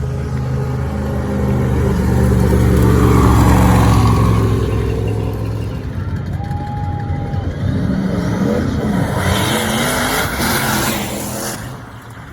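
Single-turbo Camaro race car's engine running loud, strongest about three to four seconds in, then easing off with its pitch wavering up and down before it fades near the end.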